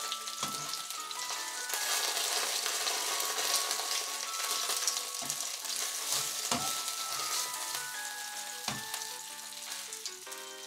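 Salmon fillets sizzling in hot oil in a pan as they are flipped with metal tongs, with a few sharp clicks of the tongs. The sizzle grows louder from about two seconds in as turned fillets land flesh-side down, then eases near the end.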